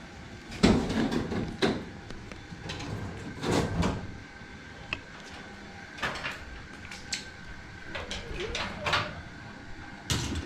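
Irregular knocks and clunks of things being handled, about a dozen in ten seconds, the loudest about half a second in.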